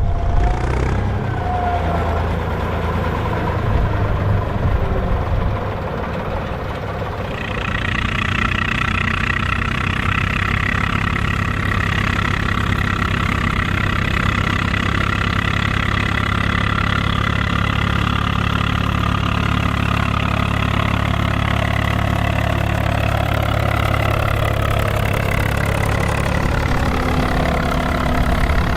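Volvo BM farm tractor's diesel engine running steadily, working in the field while ploughing. About seven seconds in, a steady higher whine joins the engine sound and stays.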